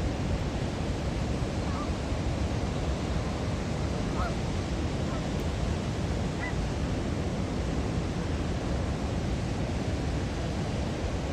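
Steady rushing outdoor noise, heaviest in the low end, with a few faint, brief calls from waterfowl, the first about a second in and two more around four and six seconds in.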